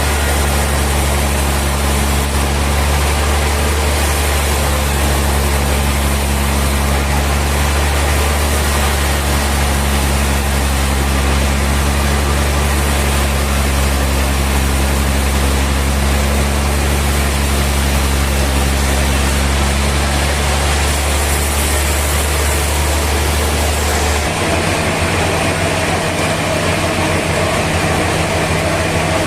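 Heavy sawmill machinery running steadily with a deep, engine-like hum. The low tone changes abruptly about 24 seconds in.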